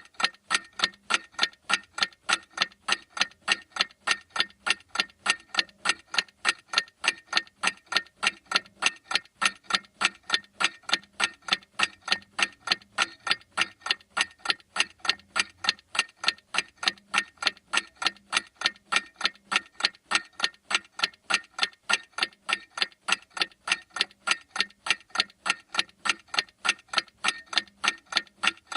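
A clock ticking steadily, with sharp, evenly spaced ticks at an unchanging pace.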